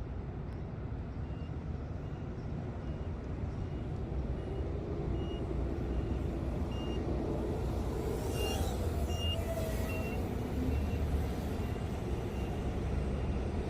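Low-battery warning beeper sounding short high beeps about twice a second. It signals a sagging, worn-out 3S LiPo pack that can't hold voltage, with a steady low rumble underneath.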